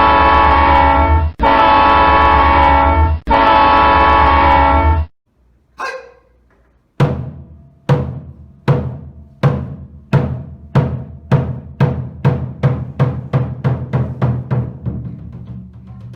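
Three long, loud horn blasts over a low rumble. After a short pause comes a single ringing strike, then a run of drum strikes that start about a second apart and steadily speed up, the slow accelerating opening of samulnori percussion.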